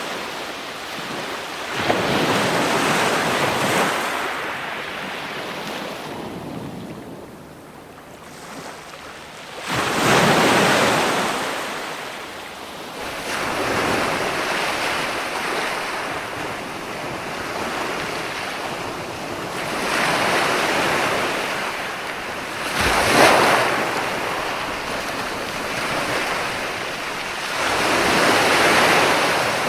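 Ocean waves breaking and washing up, swelling and falling every few seconds, about six surges in all, the sharpest and loudest about three quarters of the way through.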